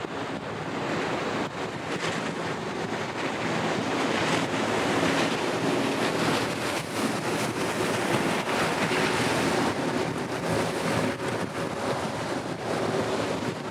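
Wind buffeting the microphone in uneven gusts over open water, with a faint steady low hum underneath.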